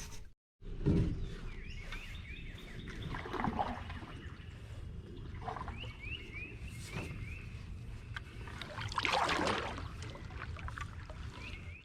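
Canoe paddle strokes in the water, a few seconds apart, over a low steady rumble, with a small bird repeating short runs of quick chirps.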